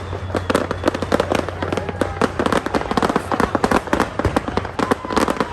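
Fireworks going off in a dense, rapid string of sharp pops and crackles, many per second.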